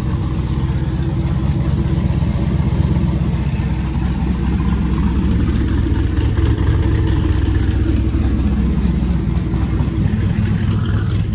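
Turbocharged LS V8 engine idling loudly and steadily, described as "pretty rowdy", with a deep rumble "you can kind of feel in the chest".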